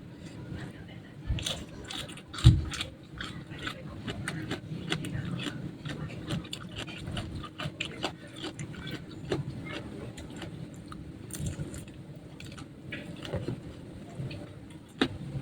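Biting and chewing crispy fried chicken: a steady run of small crunches and wet clicks, with one loud thump about two and a half seconds in.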